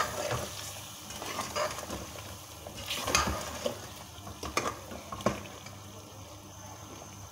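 Beef and spice masala sizzling as it is fried down (bhuna) in a pressure cooker pot, with a metal spoon stirring and scraping against the pot. The sizzle runs steadily under a few short, sharp scrapes of the spoon.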